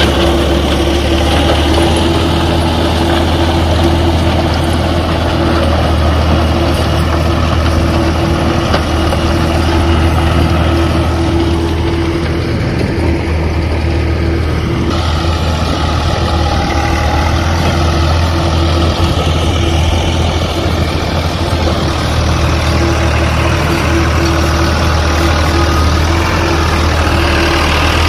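Tractor engine running steadily, a continuous low drone with a steady hum above it.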